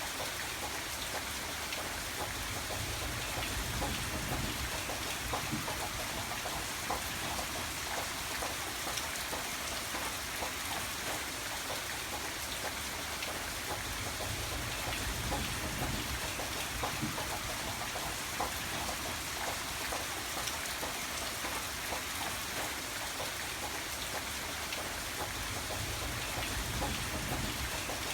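Steady rain falling on a surface, a continuous hiss dotted with many separate drop ticks, with a low rumble that swells and fades a few times.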